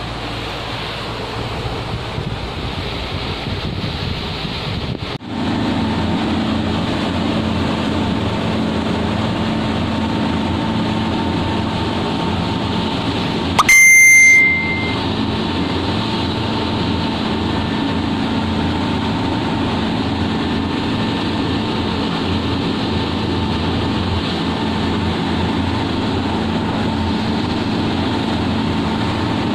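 Wind and water noise, then a steady motor hum from about five seconds in. About halfway through comes one loud, high ringing tone lasting about a second.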